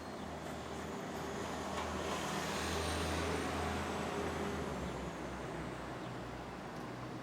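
Street traffic: a motor vehicle passes, its low engine hum and tyre noise growing to loudest about three seconds in, then fading away.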